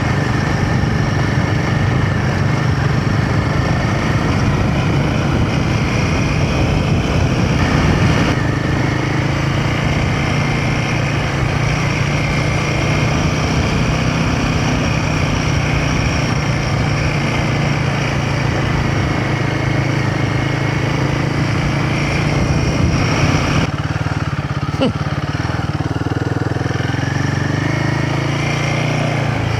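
Royal Enfield Himalayan 450's single-cylinder engine running steadily under way. About three-quarters of the way through, the deep rumble thins and the engine note changes.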